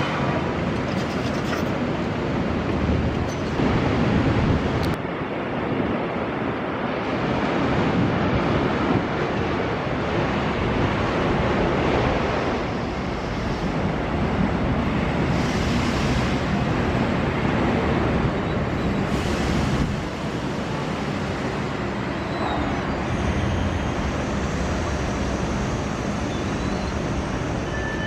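Heavy diesel machinery at work, a CAT 320 crawler excavator loading a tractor's dumper trailer: a steady engine rumble with a hiss that swells and eases every few seconds.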